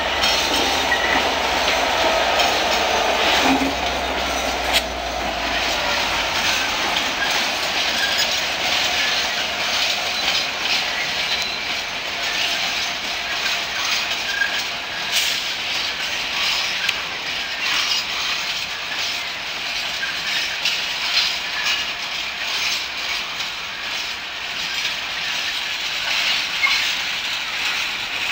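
Freightliner Class 66 diesel locomotive, with its EMD two-stroke engine, passing and moving away; its low engine hum fades about six seconds in. A long rake of hopper wagons then rolls by with a steady wheel rumble and clickety-clack over the rail joints.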